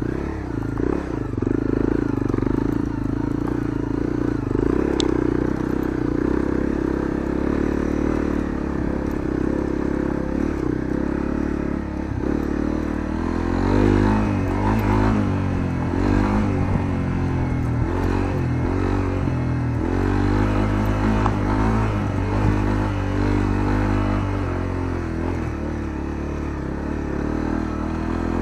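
Honda CRF250L's single-cylinder four-stroke engine with a Moriwaki aftermarket muffler, heard onboard while riding. It runs at a steady pitch for about the first twelve seconds, then the revs rise and fall again and again.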